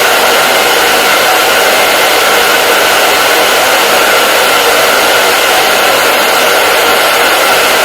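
Hair dryer running steadily, a loud even rushing hiss with a faint steady whine inside it.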